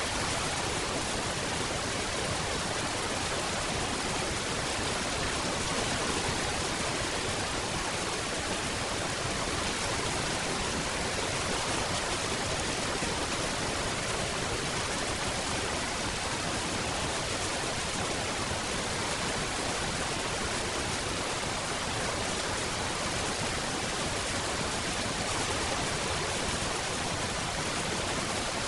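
Steady rain falling, an even hiss with no breaks and no single drops standing out.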